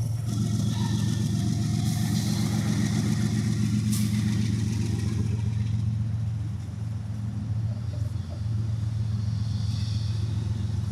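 Diesel freight locomotives passing close by: a steady low engine drone with the noisy rumble of the train rolling on the rails, easing slightly past the middle.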